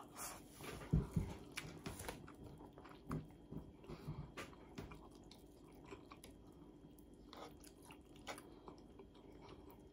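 A person chewing a mouthful of rice and fish close to the microphone, with soft wet mouth smacks and faint clicks at irregular intervals.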